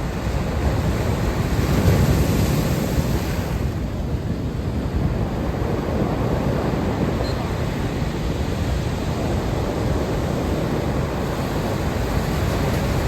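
Ocean surf washing onto the beach, a steady rush that swells about two seconds in, with wind buffeting the microphone.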